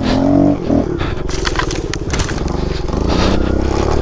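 Kawasaki KLX 110 pit bike's small single-cylinder four-stroke engine running, its pitch dropping and turning rough before rising again near the end, with crunching and scraping noises from about a second in to past the middle.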